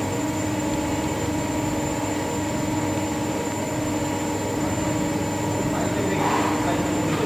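CNC milling machine running: a steady machine hum with several constant tones, including a high whine.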